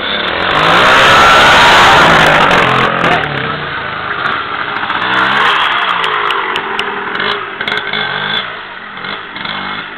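Motocross dirt bike engines revving up and down as they ride the track, loudest as a bike passes close about a second in, with another swell a few seconds later.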